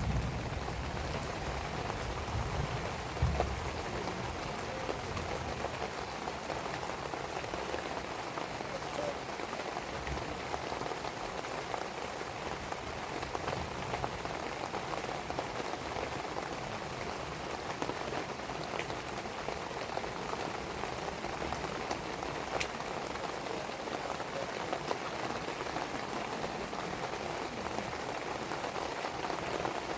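Steady rain falling and pattering on surfaces, with a few faint sharp crackles from a burning wood fire. A low rumble dies away in the first few seconds.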